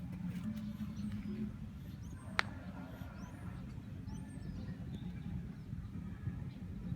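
Small birds chirping faintly over a steady low rumble, with one sharp click about two and a half seconds in.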